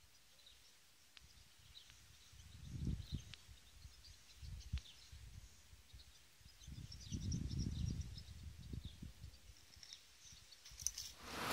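Faint outdoor ambience: small birds chirping, with a few low rumbles.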